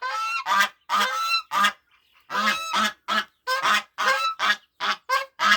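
Geese honking over and over in quick, repeated calls, about two or three a second, with a short pause about two seconds in.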